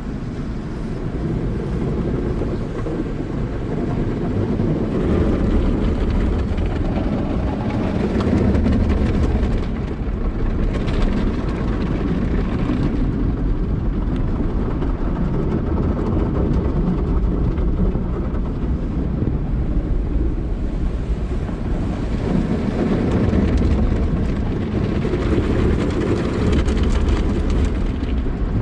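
Car wash at work on a car: a steady, heavy rumbling wash of water and machinery that swells and eases every several seconds.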